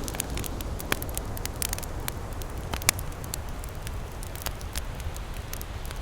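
Campfire crackling, with irregular sharp pops and snaps, the loudest a little before one second in and near three seconds, over a steady low rush of ocean waves.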